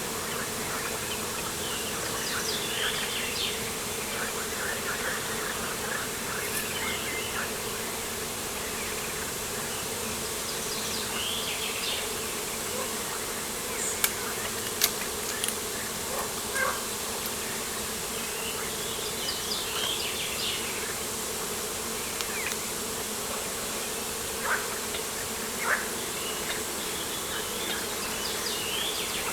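Steady buzzing of insects such as bees or flies, with birds chirping here and there and a few sharp ticks in the second half.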